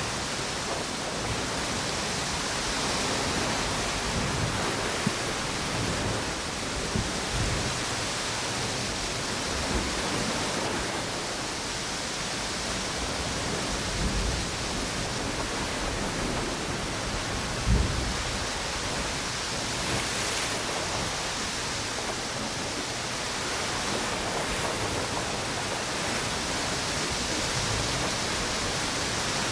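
Steady wash of wind and ocean surf on a tropical beach, with a few brief low thumps, the loudest about two-thirds of the way through.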